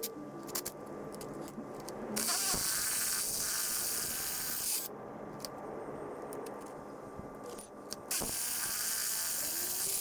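Power drill boring into a concrete floor with a carbide-tipped masonry bit, running in spells of a few seconds with short pauses between.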